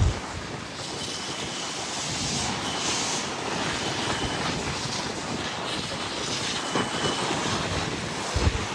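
Steady rushing noise of wind on the microphone, with low buffeting thumps at the start and again near the end.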